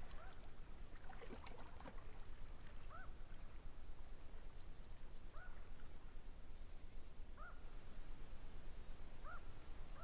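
A bird calling faintly: a short arched note repeated about every two seconds, over a steady low background hum.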